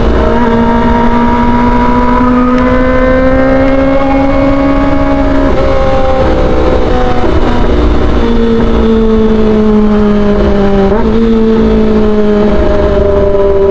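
Kawasaki ZX-25R's 250 cc inline-four with an aftermarket exhaust running at high revs: a loud, steady high-pitched tone that slowly rises and falls, stepping down suddenly about five seconds in and again near eleven seconds.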